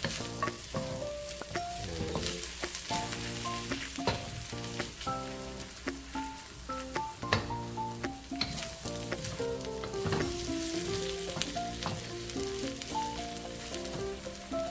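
Chopped milkfish sisig sizzling in a hot carbon-steel wok while a wooden spatula stirs and scrapes it against the pan, frying the mix until it chars. Gentle background music plays over it.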